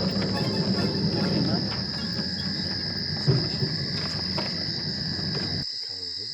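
Steady high-pitched insect chorus, with a low rumbling wash underneath that cuts off abruptly near the end.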